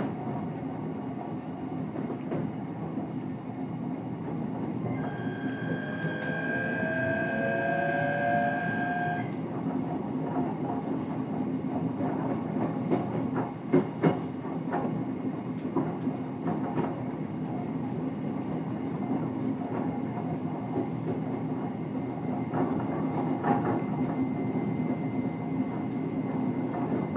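Running noise heard aboard a JR East E129 series electric multiple unit, car KuMoHa E129-9, as the train moves along the line. About five seconds in, a rising whine with a high steady tone lasts roughly four seconds. A couple of sharp wheel clicks over rail joints come near the middle.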